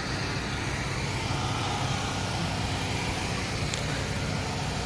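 Car engine idling, a steady low pulsing rumble.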